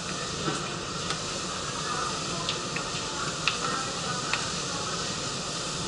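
Steady hiss of a stopped electric commuter train standing at a station platform with its doors open, with a few faint clicks and knocks.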